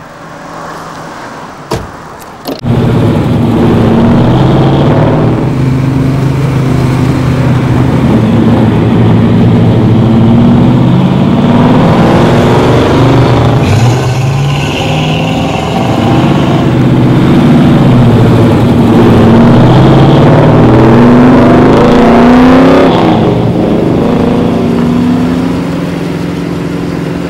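Two short knocks in the first couple of seconds, then loud car engines accelerating and revving, their pitch climbing and dropping again and again as the cars speed along.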